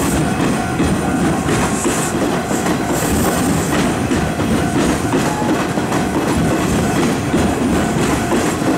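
Hanshin 1000-series electric train passing over the level crossing, its wheels clattering over rail joints and points. The crossing's warning alarm rings steadily underneath.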